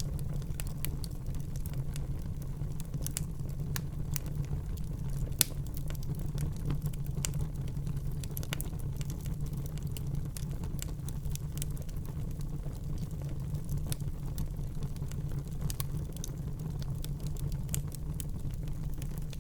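Wood fire burning in a fireplace: a steady low rumble of the flames with irregular sharp crackles and pops from the burning logs, one louder pop about five seconds in.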